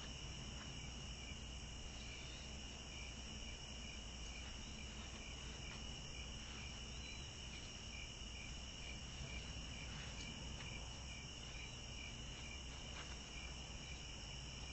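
Insects chirping in the background: a steady high chorus with an evenly repeating cricket-like chirp, plus a few faint clicks.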